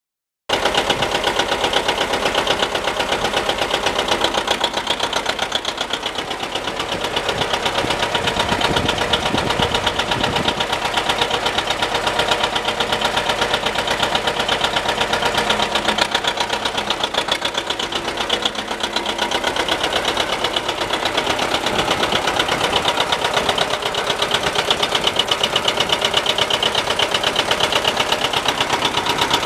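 1957 John Deere 720 Diesel tractor's two-cylinder diesel engine running steadily, with an even, rapid pulsing exhaust beat.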